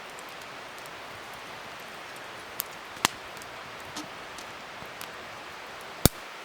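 Wood fire burning with a steady hiss and crackle, popping sharply a few times, loudest about three seconds in and again near the end.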